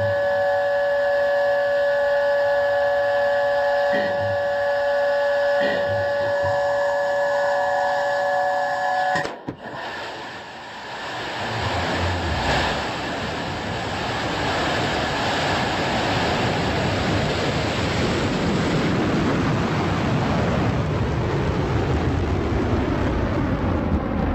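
A steady held chord of tones cuts off about nine seconds in. Then the noisy rush of New Shepard's BE-3 rocket engine rises into a loud, steady rumble as the rocket lifts off.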